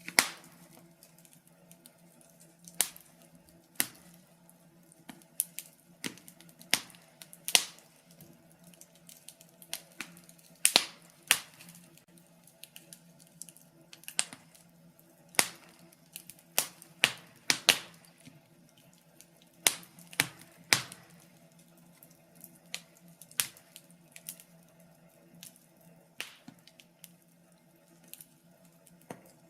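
Wood fire crackling in a fireplace: irregular sharp pops and snaps of burning logs, some louder than others, over a faint steady hum.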